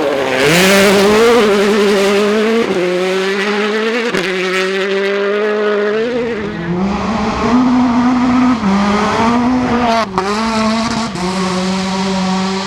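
Rally car engine at high revs, its pitch stepping up and down several times as it shifts and lifts off, with a brief sharp drop about ten seconds in. A burst of hiss rides over the engine about half a second in.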